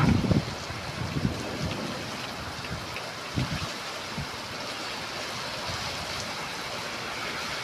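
Heavy rain falling in a steady hiss, with wind gusting against the microphone at the start and again about three and a half seconds in.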